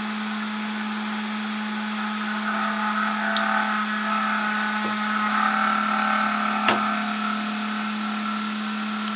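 Home-built generator's magnetically levitated rotor spinning at high speed, around 12,000 rpm: a steady hum with a whirring hiss above it. One sharp click comes about two-thirds of the way through.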